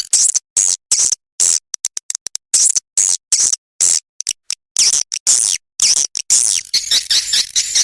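Swiftlet chirping from a swiftlet-house lure recording: quick, high twittering calls in short bursts with silent gaps between them. The bursts are sparser in the middle and come thick and fast near the end.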